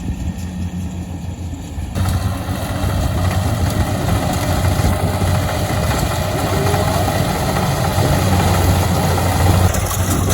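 An engine running steadily with a low hum, getting louder and noisier about two seconds in.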